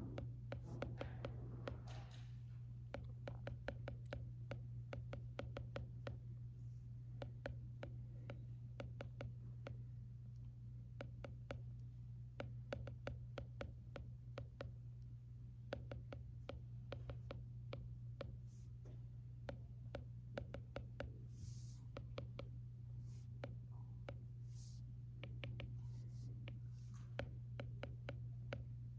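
Stylus tapping and writing on an iPad screen: a steady stream of small, sharp clicks with a few brief scratchy strokes, over a steady low background hum.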